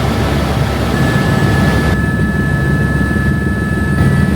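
Helicopter in flight: steady low engine and rotor noise with a thin high turbine whine over it.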